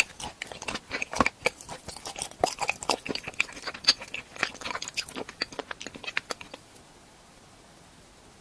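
Close-miked crunching and chewing of a hard edible treat shaped like a renovation tool, a rapid run of crisp cracks and bites that stops about six and a half seconds in, leaving only faint hiss.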